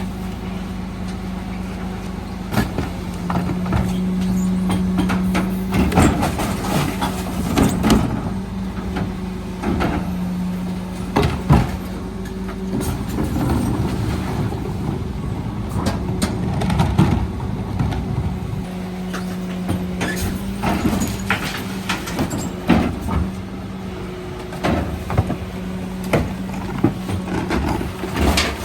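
Mercedes-Benz Econic refuse truck running with a steady mechanical hum, over irregular knocks and clatters typical of wheelie bins being lifted and tipped into the truck.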